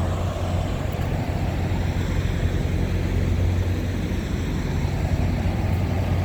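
Semi-truck's diesel engine running, heard from inside the cab as a steady low drone.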